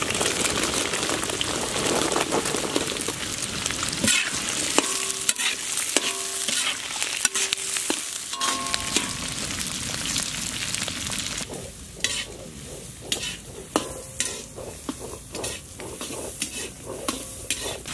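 Shallots sizzling as they fry in hot oil with green chillies and curry leaves in a large pan, stirred with a long metal ladle that squeaks and scrapes against the pan. About two-thirds of the way through the sizzle falls away to scattered clicks and knocks.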